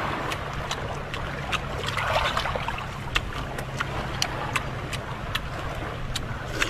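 Eating sounds: many short, sharp clicks of crunching and chewing fried cuttlefish, over a steady low hum.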